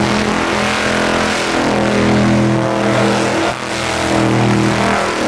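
Truck engine revving hard and held at high revs, with a brief dip about three and a half seconds in.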